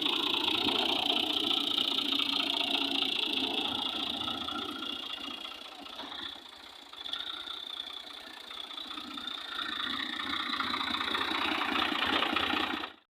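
Tractor engine running steadily, dipping in loudness for a moment around the middle before picking up again, then cutting off suddenly at the very end.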